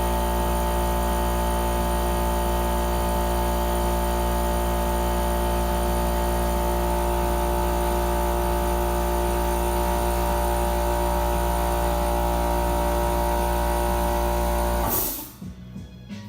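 Electric motor of the primer spraying rig running steadily, a loud whirring hum over hiss, cutting off suddenly about a second before the end.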